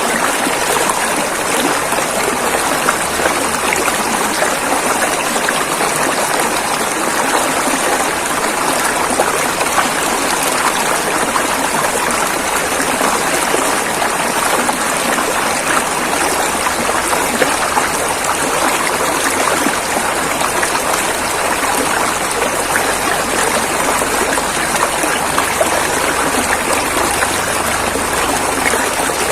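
River water flowing and splashing over rocks: a steady rushing with small splashes, unchanging throughout.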